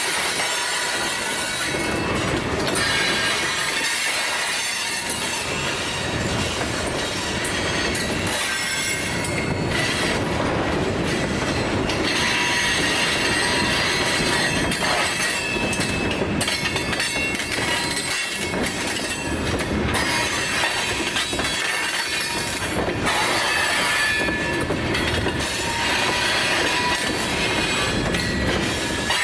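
Freight cars of a long train rolling past, steel wheels squealing in thin high tones on curving track, with the clicking of wheels over rail joints.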